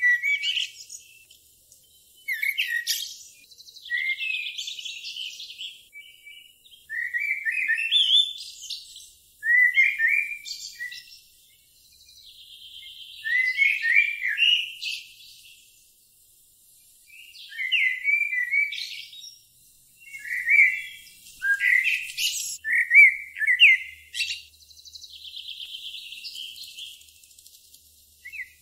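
A songbird singing: short chirping, warbling phrases with trills, repeated every couple of seconds with brief pauses between.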